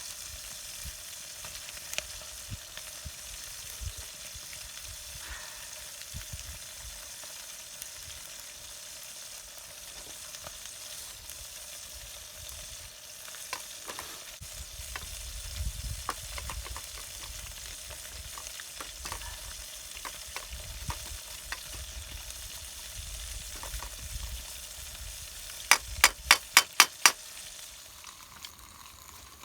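Food sizzling in a pan over a campfire, with scattered small clicks and knocks. Near the end, about seven sharp taps in quick succession.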